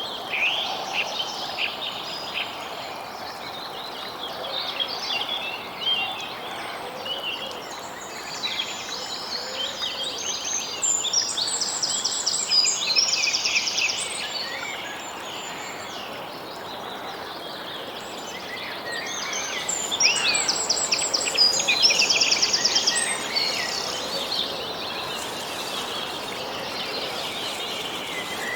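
Several songbirds chirping and singing at once over a steady background hiss. Fast, high trills stand out about eleven seconds in and again about twenty seconds in.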